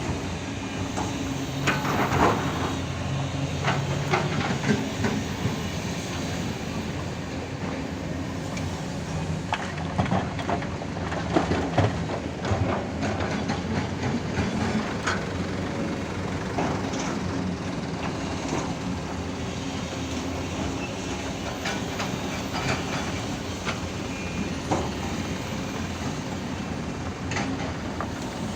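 Hydraulic excavator's diesel engine running steadily while it digs and loads earth into a dump truck, with irregular metal knocks and clanks from the bucket and tracks throughout.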